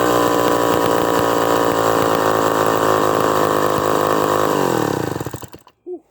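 A David Bradley 5G-21 gear-drive chainsaw runs steadily at full throttle, really singing with its high-speed needle closed 3/8 turn from a rich setting. After about four and a half seconds its pitch falls as it winds down, and it stops.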